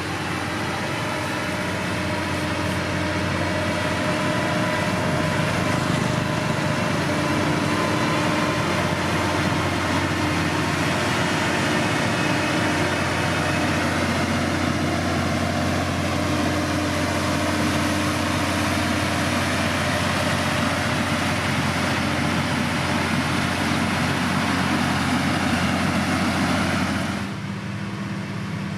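Diesel engine of heavy road-building machinery working steadily, a low engine note with a dense noisy rush over it. Near the end the rush cuts off suddenly, leaving the engine running more quietly.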